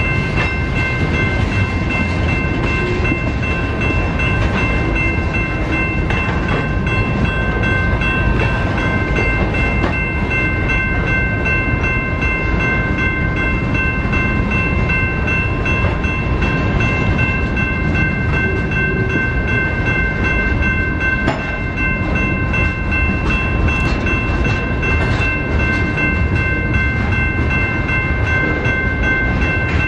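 BNSF freight train rolling by, a continuous low rumble of the cars, with several steady high-pitched tones ringing over it the whole time.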